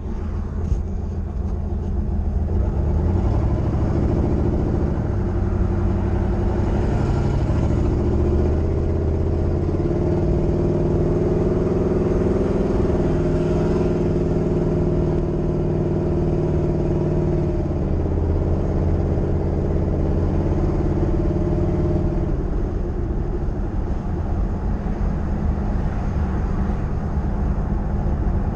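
Turbocharged 1988 Chevrolet Caprice's engine running while driving, heard from inside the cabin with road rumble. The engine note builds over the first few seconds as the car picks up speed, then holds steady.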